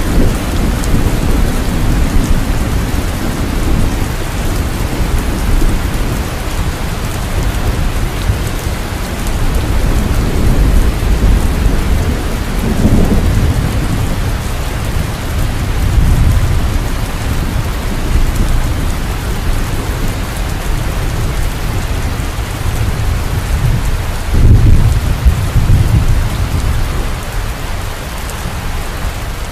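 Steady heavy rain, with low rolls of thunder swelling up several times, the strongest near the end.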